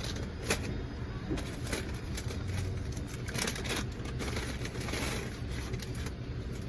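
Car engine idling with a steady low hum, broken by a few brief clicks and knocks.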